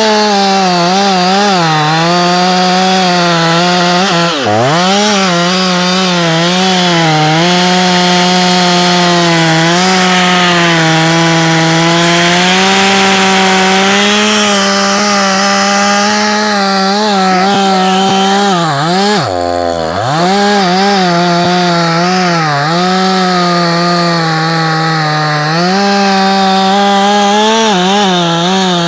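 Ported Efco 165 two-stroke chainsaw with a 20-inch bar cutting into a big oak log at high revs, the engine note wavering as it loads up in the cut. Twice, about four seconds in and again about two-thirds through, the revs drop sharply and climb straight back up.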